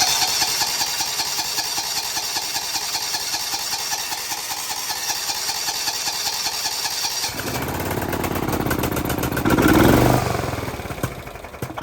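Electric starter cranking the cold, choked 12.5 hp Kawasaki engine of a John Deere SRX95 riding mower, a steady whine with a regular beat, for about seven seconds. The engine then catches and runs roughly, swelling for a couple of seconds before it dies out near the end. It is a choked cold-start attempt after a carburetor rebuild, on an engine that normally needs starting spray, and it does not keep running.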